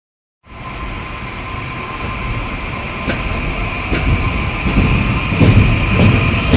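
ITX-Cheongchun express electric train rushing past close by at high speed, about 180 km/h, a steady whine over the rush of wind and wheels. It grows louder throughout, with regular sharp thumps as the wheels pass from about three seconds in.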